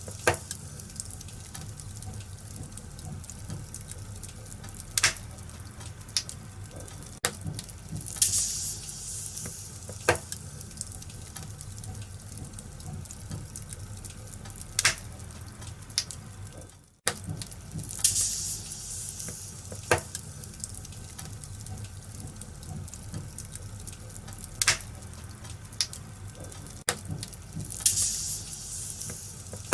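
Wood fire in a fireplace crackling, with sharp pops every few seconds and a few louder hissing flare-ups. The sound cuts out for a moment about halfway through, then resumes.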